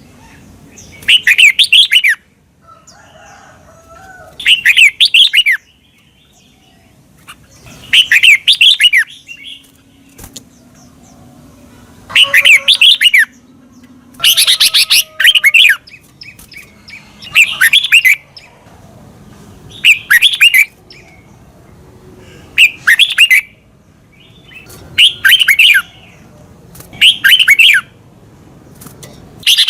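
Red-whiskered bulbul singing loud, short warbled phrases of about a second each, repeated roughly every two to three seconds.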